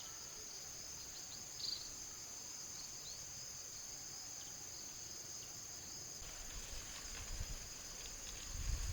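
Steady, high-pitched chirring of insects, with a few short chirps over it near the start.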